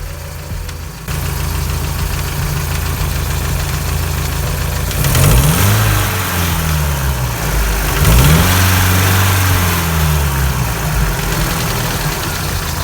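UMZ-4216 four-cylinder petrol engine idling, revved twice, about five and eight seconds in, with the pitch rising and falling back each time. It has a piston knock that comes under load when the throttle is opened, the sign of a worn-out piston; the owner puts it down to a piston with a cracked skirt.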